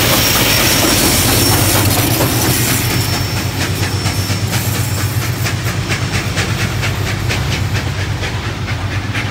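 A train passing and moving away, with a diesel locomotive's low engine drone under a dense rumble. From about three seconds in, a steady run of wheel clicks over the rail joints stands out as the rumble fades.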